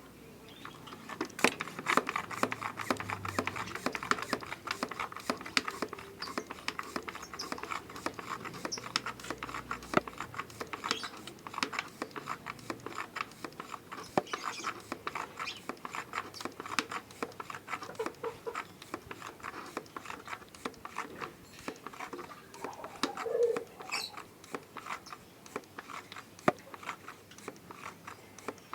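Hand-pump sprayer being pumped and sprayed, water pattering in a dense, irregular run of small clicks and spatters. A short sliding sound falls in pitch about 23 seconds in.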